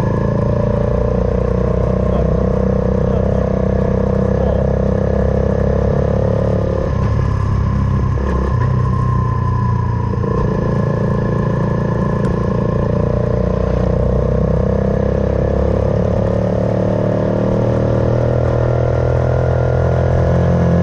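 Suzuki Van Van 125's single-cylinder four-stroke engine with an aftermarket full exhaust, running while the bike is ridden. The note dips and breaks for a few seconds about a third of the way in, then climbs slowly as the bike pulls.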